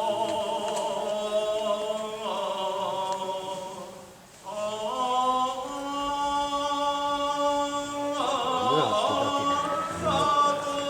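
Voices of shishi odori deer dancers chanting a slow, drawn-out song together in unison, with long held notes. The singing breaks off briefly about four seconds in and then resumes.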